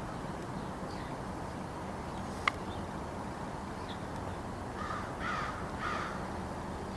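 Crows cawing, three harsh caws in quick succession near the end, over a steady low background hum. A single sharp click a few seconds earlier is the loudest sound.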